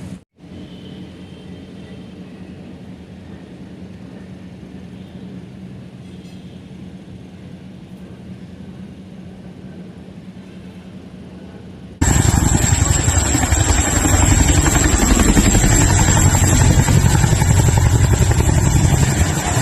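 Aircraft engine noise at an air show: a faint steady hum, then after an abrupt cut about twelve seconds in, a loud steady roar with a thin high whine.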